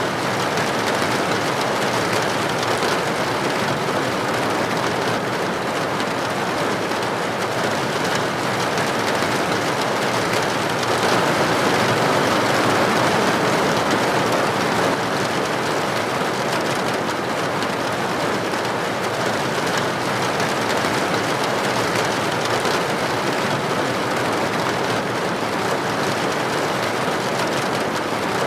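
Rain falling steadily, an even hiss that swells slightly about eleven to fifteen seconds in.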